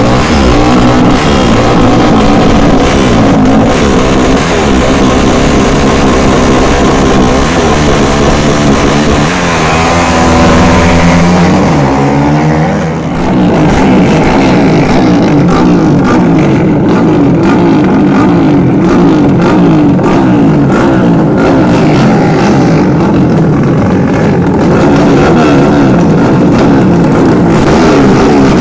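Racing motorcycle engines running loudly and revving, the pitch sweeping and breaking off about thirteen seconds in, with music playing alongside.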